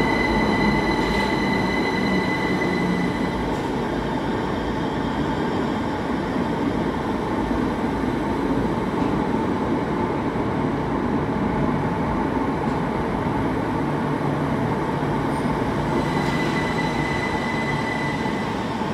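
Heathrow Express Class 387 electric multiple unit, two units coupled, running into an underground station platform: a steady rumble of wheels and running gear. A thin high squeal rides on top for the first few seconds, fades, and returns near the end.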